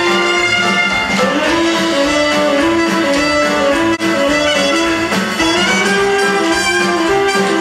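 Orchestra playing an instrumental stretch of a show tune, violins carrying a quick tune that steps from note to note over a steady accompaniment.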